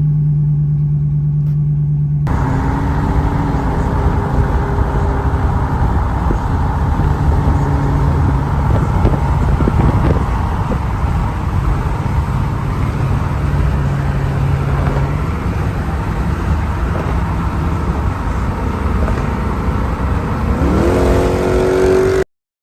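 Chrysler 300's Hemi V8 running with a steady low hum. It gives way to a rougher engine and road sound as the car is driven, and the engine revs up near the end before the sound cuts off.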